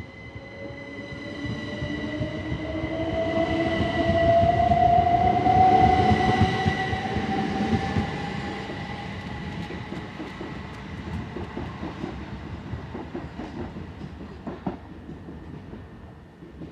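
Class 375 Electrostar electric multiple unit accelerating away from the platform: its traction motors give a whine that rises slowly in pitch over the wheel and rail rumble, which swells to its loudest about five seconds in and then fades as the train leaves.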